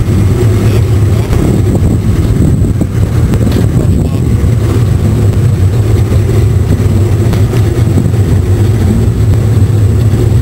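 Boat's outboard motor running steadily under way, a loud constant low drone.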